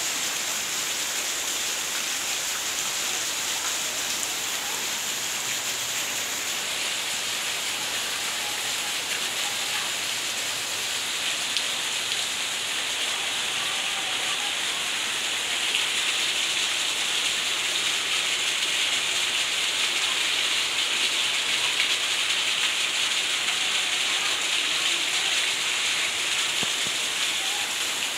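Heavy rain falling steadily, a dense even hiss that grows a little louder in the second half.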